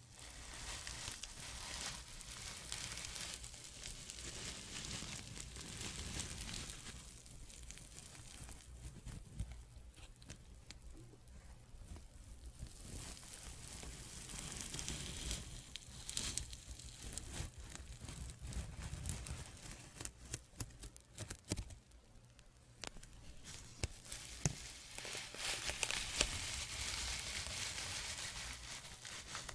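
Soft ASMR scratching: a fine, crackly scratching with many small clicks, swelling and fading in waves of a few seconds. It is quietest about three-quarters of the way through and grows again near the end.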